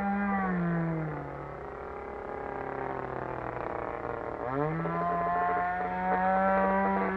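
Single-cylinder two-stroke RCGF 20cc gasoline engine of an RC model plane running at high speed. It is throttled down in the first second or so, runs slower for a few seconds, then is opened up again quickly and holds high revs.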